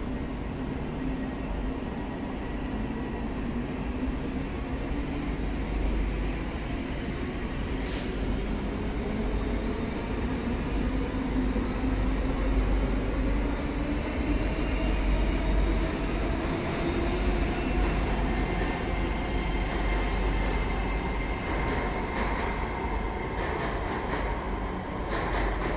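A train running through the station: a steady rumble and a drone whose pitch rises slowly over the first half, with rail noise throughout.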